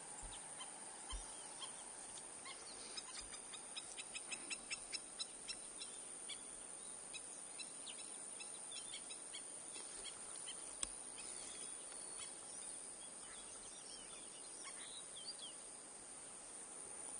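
Faint songbird song over steady outdoor background noise: a quick run of short, high, evenly spaced notes about three seconds in, with scattered chirps before and after.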